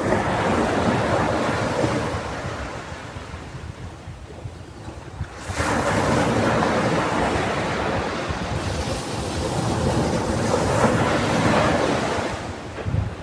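Ocean waves breaking on a sandy beach: one wash fades out over the first few seconds, then a new wave breaks suddenly about five seconds in and rushes on until near the end. Wind rumbles on the microphone throughout.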